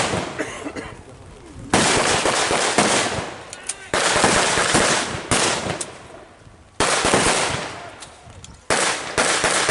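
Re-enactors' blank-firing guns in a mock battle: several sudden loud bursts of gunfire, about every second or two, each dying away in echo.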